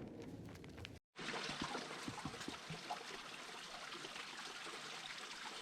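Water trickling and running at a partly frozen waterfall, a steady trickle with small splashes. For about the first second there is a lower rumbling noise, then the sound cuts out briefly and the trickle follows.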